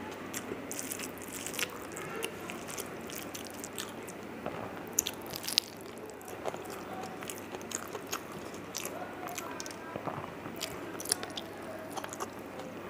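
Close-miked chewing of a mouthful of rice and fish roe, with wet smacks and many scattered sharp mouth clicks, the loudest a little past the middle.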